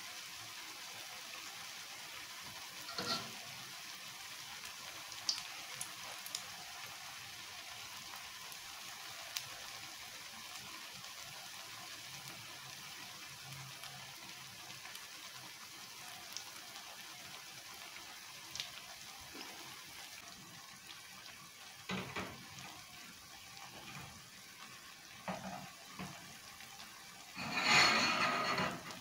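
Anchovy fritters frying in shallow oil in a wok: a soft, steady sizzle with a few scattered pops, and a louder burst of noise near the end.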